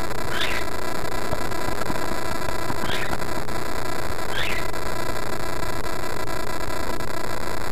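A steady hiss with mains hum from the recording, and over it three short, high chirps from a pet parrot.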